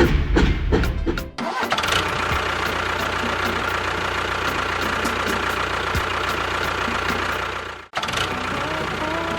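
Rhythmic percussion music that cuts off about a second and a half in, then a steady engine running, briefly breaking off near the end.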